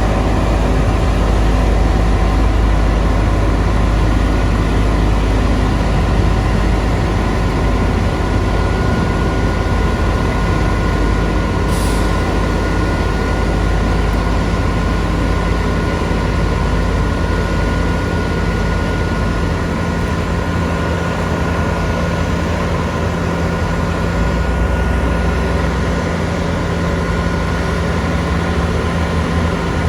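Heavy diesel engine of construction machinery running steadily with a deep rumble, with a short hiss about twelve seconds in.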